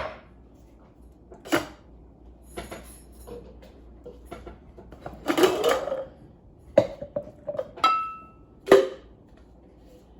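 Dishes being handled and set down, a series of separate clinks and knocks, one of them near the end ringing briefly.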